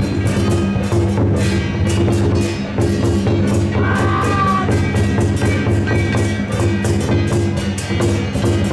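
Lion-dance percussion: drums and cymbals struck in a fast, steady beat over a steady low ringing, with a short wavering high tone about four seconds in.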